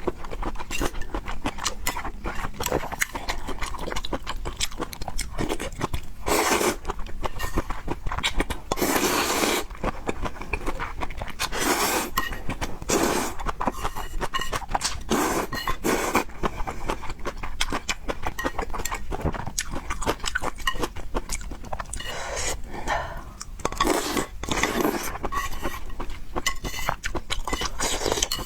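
Close-miked chewing of noodles and pork, a dense run of small clicks and crunches, broken several times by louder bursts lasting up to about a second.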